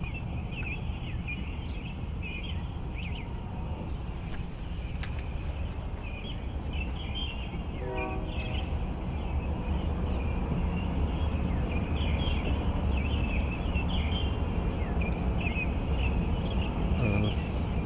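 Many small birds chirping together in a continuous pre-dawn chorus, over the steady low hum of an idling car. About eight seconds in, one brief lower call stands out.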